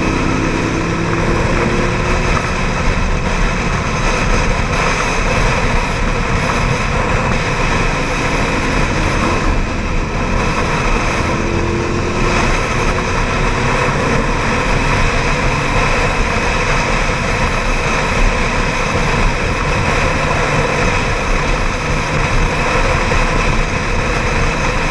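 Ducati 795 motorcycle on the move: its air-cooled V-twin engine running under steady, loud wind rush on the camera's microphone. The engine pitch glides briefly near the start and again around ten to twelve seconds in.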